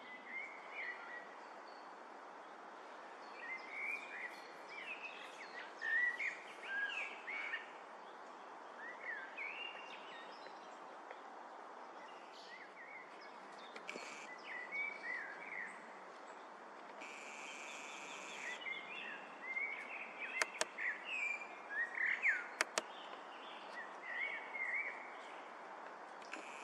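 Songbirds calling and chirping in short phrases over a steady outdoor hiss, with two sharp cracks close together about three-quarters of the way through.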